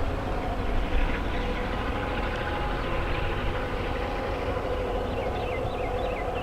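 Diesel locomotive running with a steady low rumble as the train moves, with faint steady tones above it.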